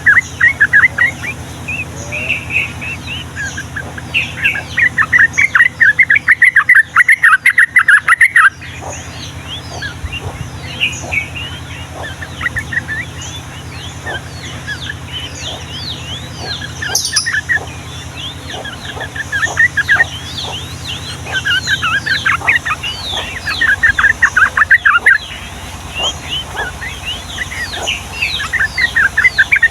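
Yellow-vented bulbul singing long, rapid chattering phrases in loud bursts, several times over. Many short, high downward chirps run between them throughout, over a steady low hum.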